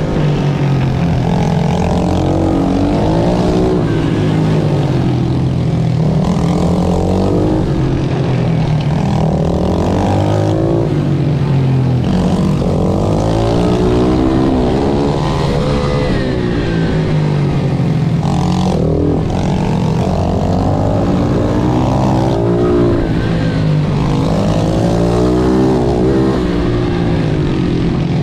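Single-cylinder pit bike engine racing hard, its note rising and falling over and over as it revs out, shifts and backs off through the corners.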